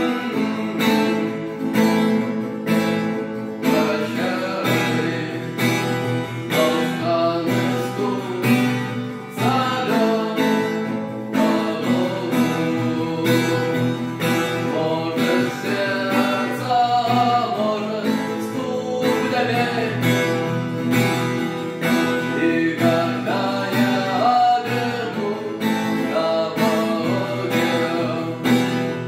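Acoustic guitar strummed in a steady rhythm, with a voice singing a song over it.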